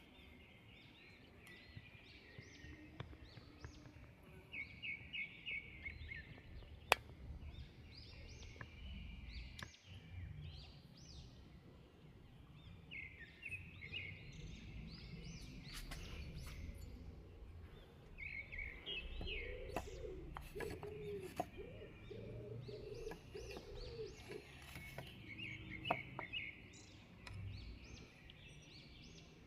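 Small birds chirping and singing in short repeated trills over a faint low rumble; a lower, slower call joins for a few seconds about two-thirds of the way through.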